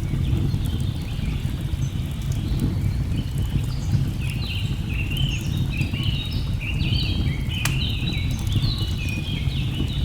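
Mixed nature ambience: a steady low rush of a waterfall, with birds chirping in many short, overlapping notes that grow busier a few seconds in. Faint crackles from a log fire, with one sharper crack about two thirds of the way through.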